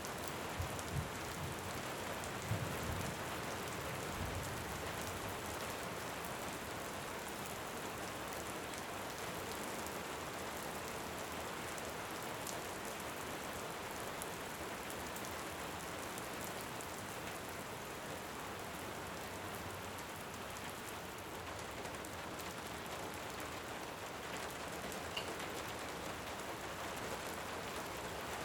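Steady, even rain. In the first few seconds a low thunder rumble dies away and a few sharp crackling-fire pops sound.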